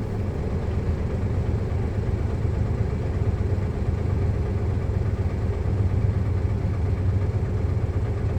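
Heavy truck's diesel engine running steadily at an even speed, a constant low hum with no revving.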